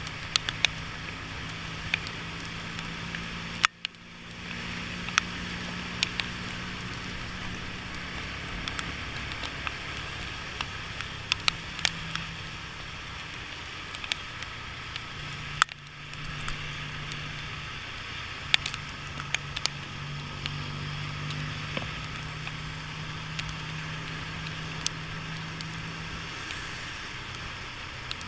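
Motorcycle riding on a wet road: a steady low engine hum under the hiss of tyres and wind, with scattered sharp ticks of raindrops hitting the camera. The sound drops out briefly twice, about 4 and 16 seconds in.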